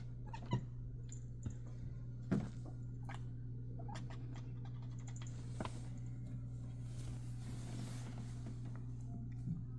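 A cat gives a few short, soft chirps several seconds apart, the chatter a cat makes at birds it is watching, over a steady low hum.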